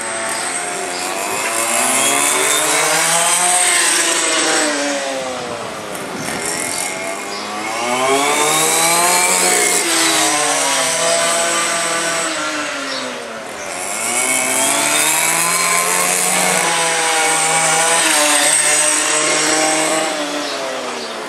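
Two-stroke petrol engines of 1:5-scale RC race cars buzzing as they lap, several at once, their pitch rising and falling as they pass; loudest at three passes, about three, nine and seventeen seconds in.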